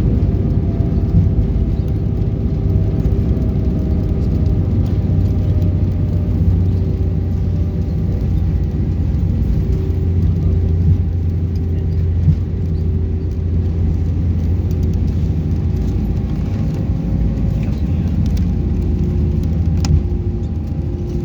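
Cabin noise inside an Airbus A319: a loud, steady low rumble with thin engine tones running over it, some of them slowly falling in pitch over the first several seconds.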